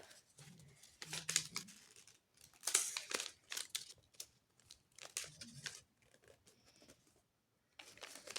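Sheet of paper being folded and creased by hand: irregular rustles and crinkles, with a short quiet pause near the end.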